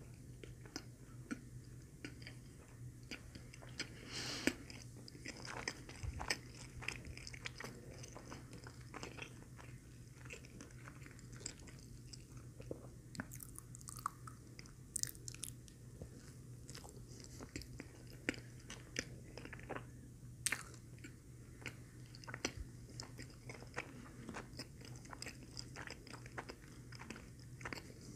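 A person chewing and biting into a McDonald's Filet-O-Fish sandwich close to the microphone. There are many small mouth clicks and smacks throughout.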